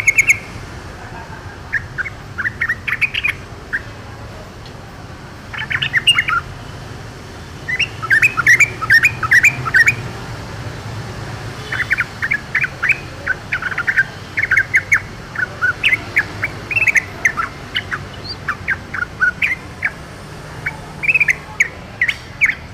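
Yellow-vented bulbul (trucukan) singing: phrases of quick, short chattering notes, repeated with short pauses.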